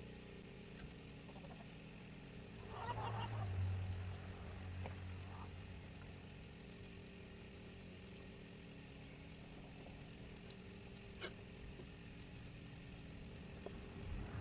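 Faint, steady hum of a woodturning lathe's motor, with a low rumble that swells a few seconds in and fades again, and a single sharp click near the end.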